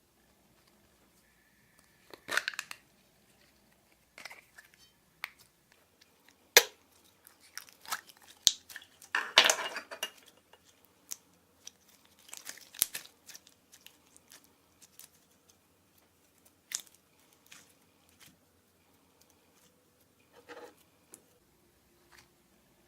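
Glossy slime being worked by hand with mixed-in items: irregular sharp clicks, pops and crunchy crackles, with a longer crackling burst about nine seconds in.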